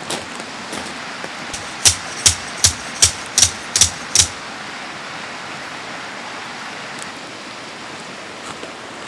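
Steady rush of a mountain stream, with a quick run of about eight sharp knocks about two to four seconds in.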